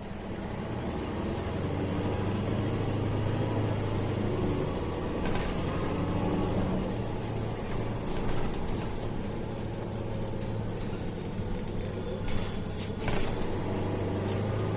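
MAN A21 city bus running on the move, heard from inside the cabin: a steady low engine drone that gets louder about two seconds in. Two short knocks or rattles come near the end.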